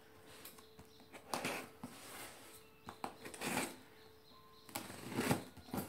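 Quiet rustling and handling of packaging as a refurbished compass and its parts are unwrapped, in several short bursts.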